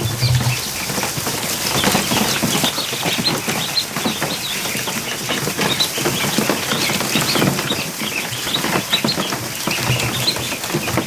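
A crowd of ducklings peeping and splashing and flapping in a plastic kiddie pool, with constant pounding on the plastic.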